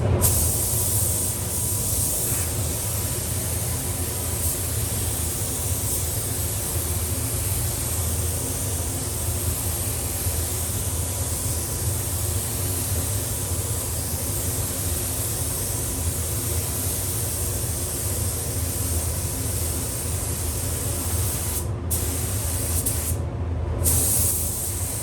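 Compressed-air spray gun hissing steadily as white primer is sprayed, over the steady low hum of the paint shop's fan. The hiss breaks off briefly twice near the end.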